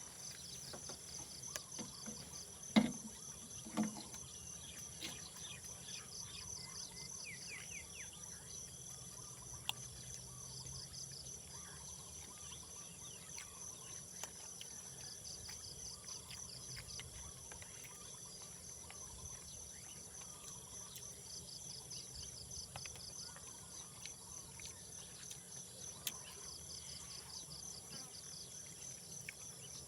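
Insects chirping in a steady high-pitched chorus, with a pulsing trill that comes back every few seconds. Two soft knocks sound about three and four seconds in.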